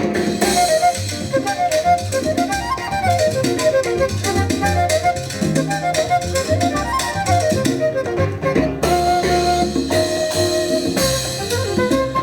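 A Latin jazz ensemble playing live: a quick melodic line of short notes rising and falling over bass and steady percussion.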